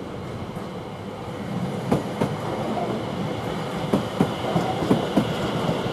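Class 720 electric multiple unit pulling out of the station, a steady rumble that slowly grows louder, with its wheels clicking in pairs over rail joints.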